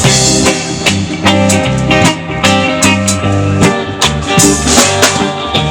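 Live band playing an instrumental passage: electric guitar, bass and drum kit keep a steady beat with regular drum hits between sung lines.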